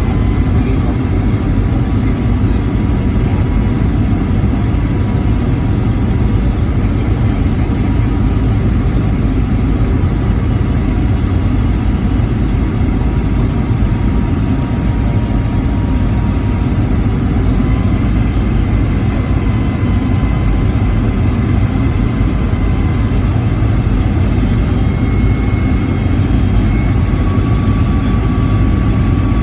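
Boeing 757-300 jet engine and airflow noise heard inside the passenger cabin: a steady, loud low rumble with a faint steady whine above it.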